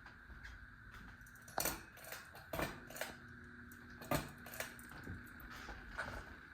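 Hampton Bay Larson 52-inch ceiling fan running on medium speed: a faint steady high whine, with a few irregular light clicks a second or so apart.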